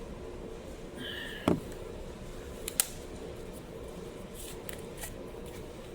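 Light handling noises over a steady background hum: a short squeak, then a knock about one and a half seconds in, a sharp click near three seconds, and a few faint ticks later on.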